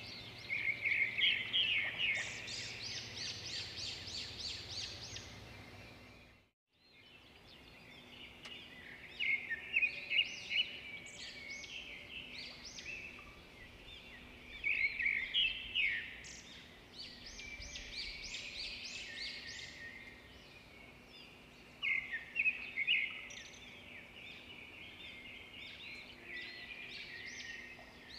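Small birds chirping and trilling in quick bursts of high notes, the sound cutting out briefly about six and a half seconds in.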